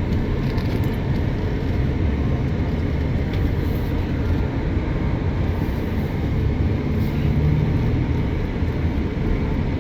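Road and engine noise inside a moving van's cabin, a steady low rumble.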